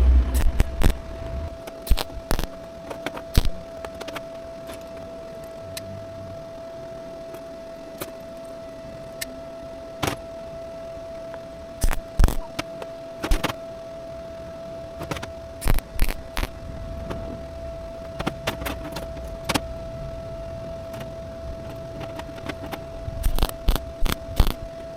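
Scattered light metallic clinks and knocks of sheet steel being handled and worked, clustered near the start and near the end, over a steady high-pitched tone.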